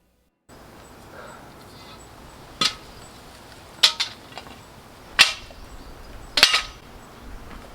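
A series of about five sharp, short knocks spaced roughly a second or so apart, some of them doubled, over a faint steady hiss.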